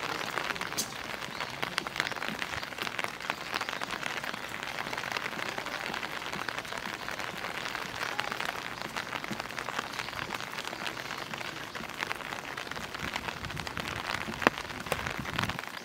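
Steady rain, with a dense scatter of sharp individual drop ticks over an even hiss, and one louder click near the end.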